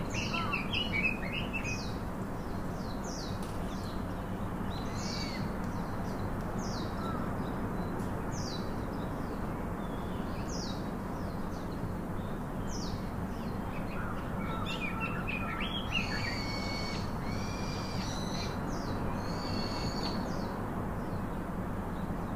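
Small birds chirping over a steady background hiss: short, high, downward-sliding chirps about once a second, then a fuller stretch of song with held whistled notes about two thirds of the way through.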